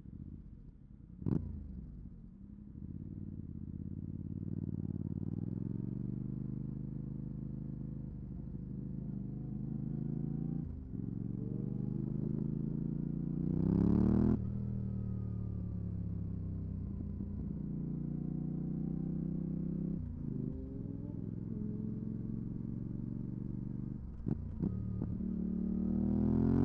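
Yamaha R7's 689 cc parallel-twin engine through a MIVV GP Pro exhaust with the dB-killer fitted, pulling through the gears: the pitch climbs, drops at each shift, and peaks sharply about halfway. After that peak the revs fall off slowly, then it pulls hard again near the end. A short, sharp blip comes about a second in.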